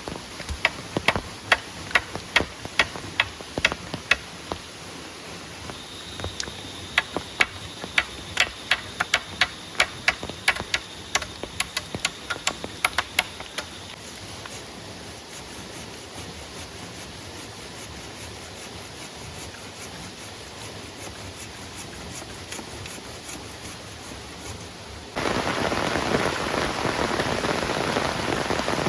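Rain falling, with a run of sharp taps, two or three a second, through the first half. Near the end the rain suddenly becomes much louder and heavier.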